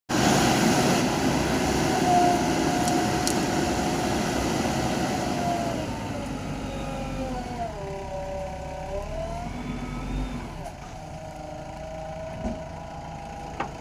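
Heavy vehicle engine running, loud at first and easing after about six seconds, with a whine that dips in pitch and rises back.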